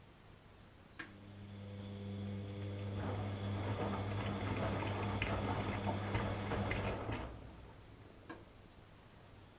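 Atlant 70C1010 washing machine: a click about a second in, then a steady electric hum with water rushing through it, swelling for a few seconds and cutting off with a click after about six seconds; a single click follows a second later.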